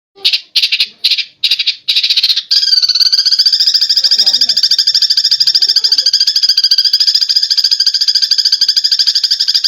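Eurasian tree sparrows' fighting chatter: a few short bursts of chirping, then from about two and a half seconds in a continuous, fast rattling chatter.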